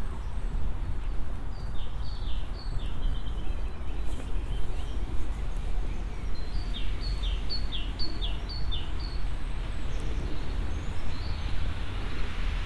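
A small songbird singing a quick phrase of repeated high two-part notes, five or six in a row, delivered twice with a pause between, over a steady low rumble.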